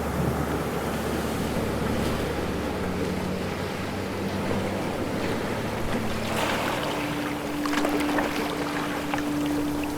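Ocean waves washing, with splashy surges about six and a half and eight seconds in. Under them runs a steady low motor hum whose pitch steps up partway through.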